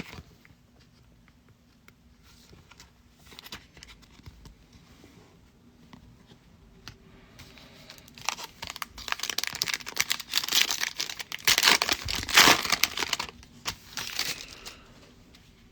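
Plastic foil trading-card pack wrapper being handled, crinkled and torn open. There are light rustles at first, then loud crinkling for about six seconds from the middle on.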